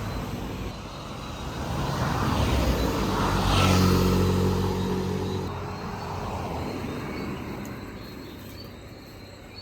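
A car driving past on the road: it approaches, is loudest about four seconds in with its engine and tyre noise, then fades away.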